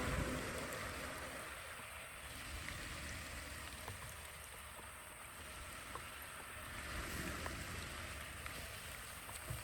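Running water, a steady flowing wash with a few faint small ticks, easing slightly in the first couple of seconds.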